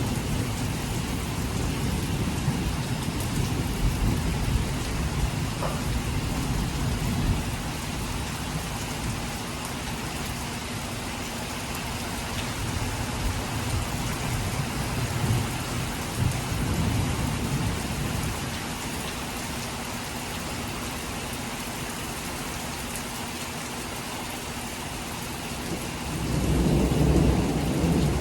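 Heavy rain falling steadily in a thunderstorm, with thunder rumbling low at the start and again midway, and a louder rumble of thunder building near the end.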